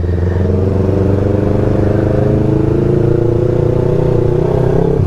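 Yamaha R3's parallel-twin engine running steadily under way, its pitch rising slightly near the end.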